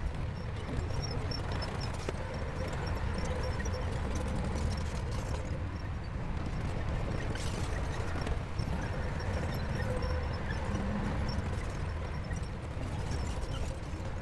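Shantui crawler bulldozer's diesel engine running steadily with a low rumble as the machine works.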